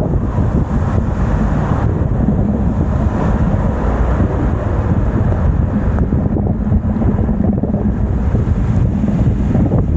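Wind buffeting the microphone of a moving bicycle ride, a loud, steady low rumble that flutters without a break.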